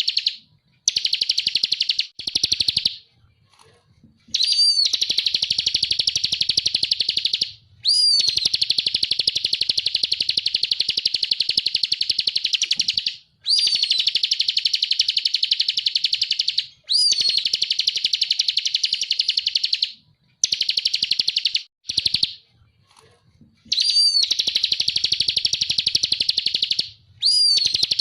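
Ciblek kristal (bar-winged prinia) singing vigorously: long, very fast trilled phrases of a few seconds each, every phrase opening with a short sweeping note, with brief pauses between them.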